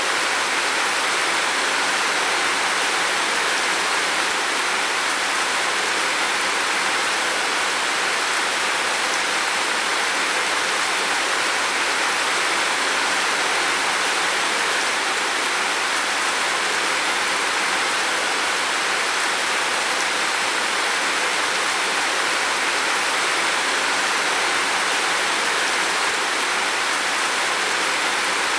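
Heavy rain falling steadily on a roof, a dense even hiss of drops without breaks or single impacts.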